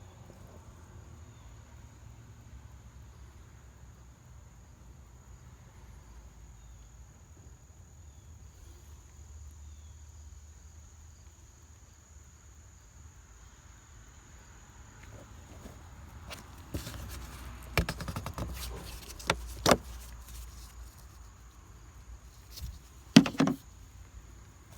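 A steady high-pitched chirring of crickets over a low hum. About two-thirds of the way in come a scatter of knocks and clunks from work on the car, the loudest one near the end.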